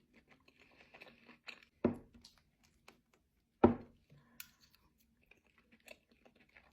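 A person chewing food close to the microphone, with small wet clicks and smacks of the mouth, and two louder knocks about two and three and a half seconds in.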